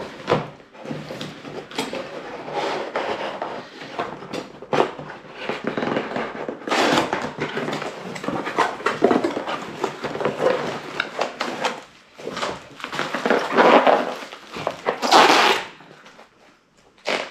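A cardboard box being opened and its packing handled by hand: continuous crinkly rustling and crackling with sharp clicks, loudest in several surges toward the end.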